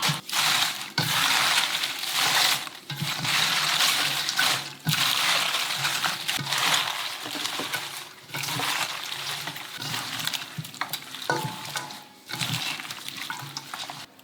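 Tap water running and splashing in a kitchen sink as food is rinsed under it. The stream is broken by short gaps every second or two and cuts off suddenly near the end.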